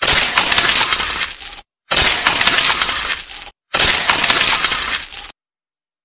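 Coins jingling and clinking together, heard three times in a row, each burst about a second and a half long.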